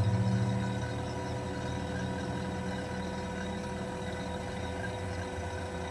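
Fieldpiece vacuum pump running steadily, pulling a vacuum on a heat pump's refrigerant lines; its low hum drops in level about a second in, then holds steady.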